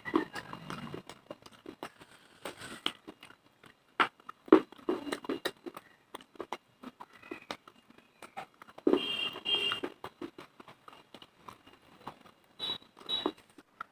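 Teeth biting and chewing hard dry clay: irregular sharp crunches and cracks with grinding in between, a few high squeaks among them.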